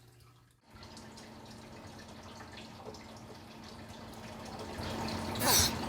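Faint room noise with a low steady hum, then near the end a brief hiss from a pine snake as it strikes at a thawed pinky mouse.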